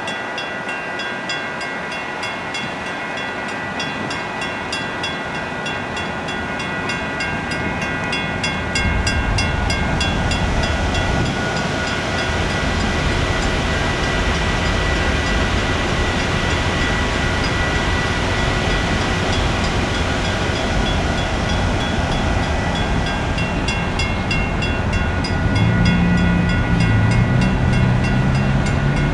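Loaded rock-train hopper cars rolling past on the rails, a steady rumble of wheels that grows louder about nine seconds in. Over it, a grade-crossing warning bell rings steadily.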